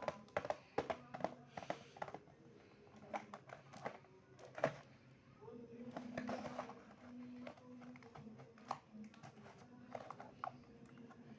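Irregular sharp clicks and taps of a World Spriggan Beyblade spinning top and its packaging being handled while unboxed, thickest in the first couple of seconds and sparser after.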